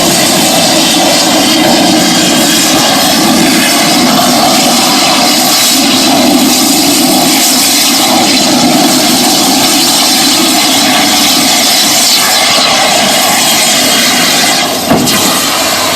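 Cutting torch cutting scrap steel: a loud, steady, jet-like hiss of the gas stream, with a brief sharp pop near the end.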